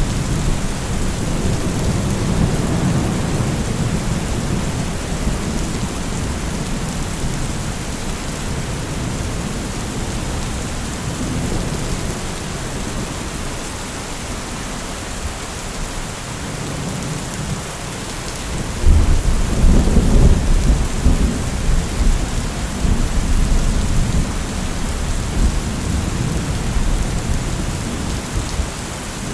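Steady heavy rain with rolling thunder. A long low rumble fades over the first few seconds, and a louder one breaks about two-thirds of the way through and rolls on for several seconds before dying away.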